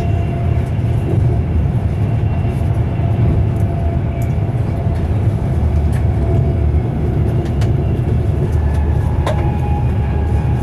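Class 390 Pendolino electric multiple unit running at speed, heard from inside a passenger coach: a steady low rumble with a faint steady whine and occasional light clicks.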